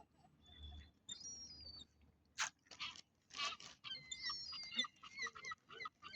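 Gulls calling over and over in short falling cries, faint and thick from about four seconds in, with a few brief crunches in between.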